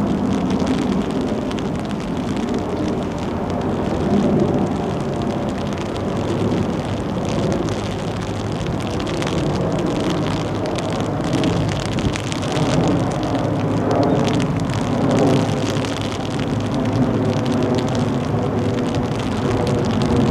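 Rain and wind noise over a steady low rumble, rising and falling in gusts.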